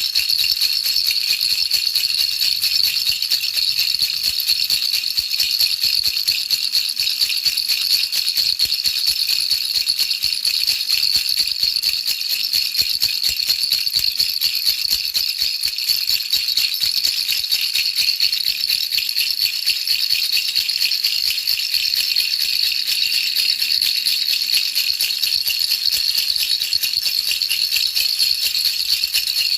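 Baby rattle shaken continuously as a steady, even, high-pitched rattling, looped as white noise to lull a baby to sleep.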